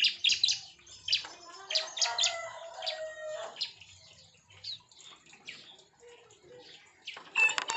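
Bar-winged prinias (ciblek) chirping in short, sharp high calls, loudest at the start and again near the end. A rooster crows once in the background, beginning about two seconds in and lasting roughly a second and a half.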